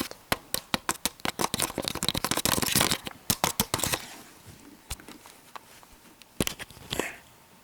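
Quick, irregular clicks and rustles of small objects being handled, dense for about four seconds, then a few scattered taps.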